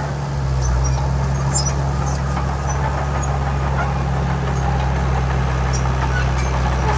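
Heavy diesel engine of earth-moving machinery running steadily, a constant low hum with faint scattered clinks above it.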